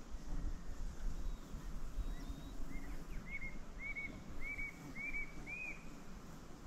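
A bird calling a series of about seven short, arched whistled notes, roughly two a second, growing louder from about two seconds in until near the end, over a steady low rumble.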